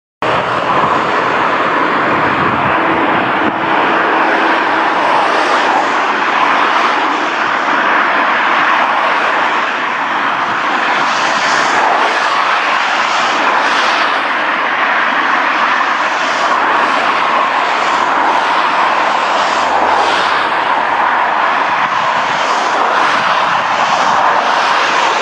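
MaK Class 6400 diesel locomotive running with a container train: a loud, steady engine drone that cuts in suddenly.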